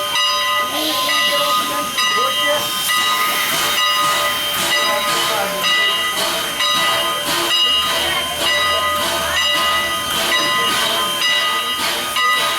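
Strasburg Rail Road's steam locomotive No. 89, a 2-6-0, standing while it takes on water and hissing steam, with rhythmic bursts about once or twice a second over a steady high whine of several tones.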